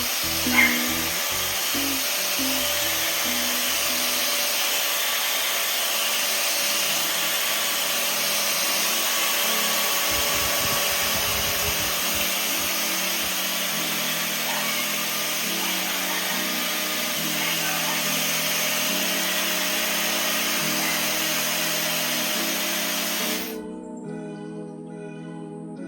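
High-speed hair dryer (Dreame Pocket) running steadily: a rush of air with a thin, high motor whine. It switches off suddenly near the end.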